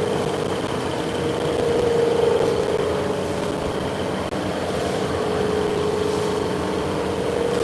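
Machine-shop machinery running steadily, a continuous hum with a slightly wavering mid-pitched tone and a faint high whine.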